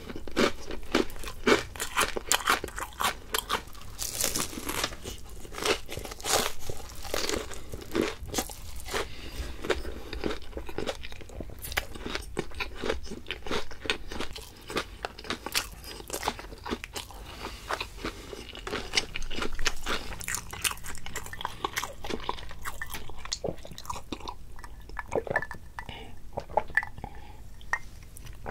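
Close-miked crunching and chewing of crispy fried food, bite after bite in quick succession. The crunches thin out over the last few seconds.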